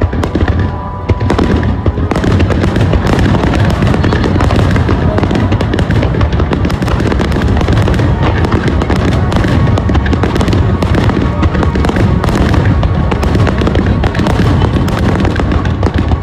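Aerial fireworks shells bursting in a dense, continuous barrage of loud booms, one on top of the next, with music alongside.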